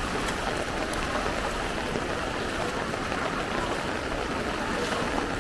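Fast-flowing floodwater making a steady rushing sound.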